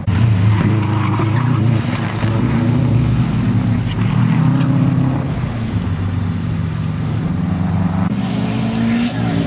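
A car's engine running hard through a chicane, its pitch rising and falling several times as the driver lifts off and gets back on the throttle.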